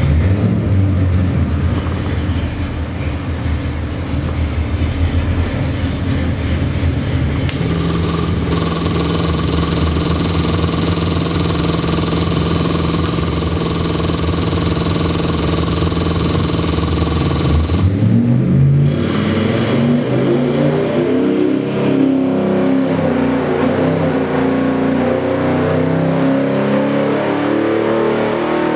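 Chevy 327 small-block V8 with a hydraulic roller "thumper" cam running loud. It idles with a choppy lope at first, is held at a steady higher speed from about eight seconds in, then is revved up and down repeatedly for the last ten seconds.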